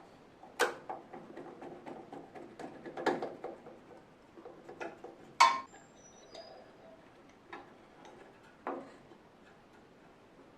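Irregular clicks and knocks of small hard objects being handled, with louder knocks about half a second, three seconds and five and a half seconds in.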